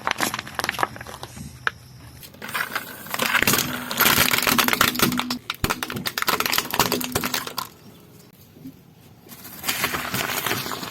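Dense crunching and crackling of crunchy objects being crushed under a car tyre. It comes in spells: a short burst at the start, a long one from about two and a half to seven and a half seconds in, and another near the end.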